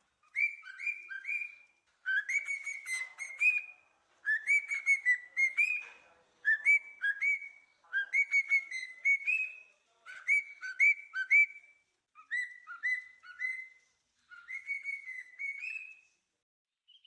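A songbird singing in short, repeated whistled phrases, about eight of them, each a quick run of clear notes with brief pauses between.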